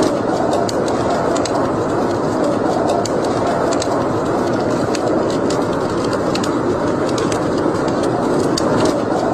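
Wood fire burning in a fireplace: a steady, dense rush with frequent small sharp crackles and pops scattered throughout.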